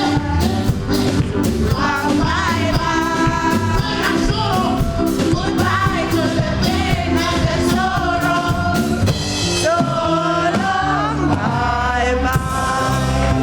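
Gospel singers singing long, wavering held notes over instrumental accompaniment with a steady beat.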